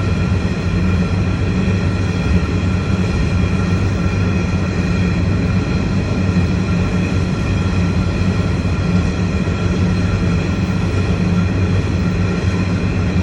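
A train rolling past: a loud, steady rumble, with several high steady tones above it.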